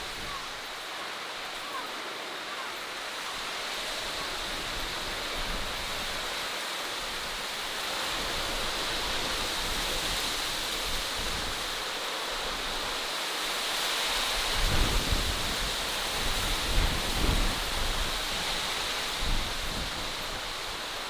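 Outdoor natural ambience: a steady rushing hiss, with low gusts of wind buffeting the microphone about two-thirds of the way in.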